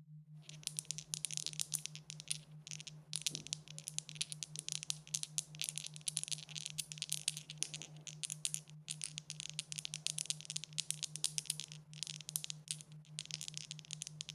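Dice rattling continuously in dense, quick clicks, with a few brief pauses. A steady low hum that pulses evenly runs underneath.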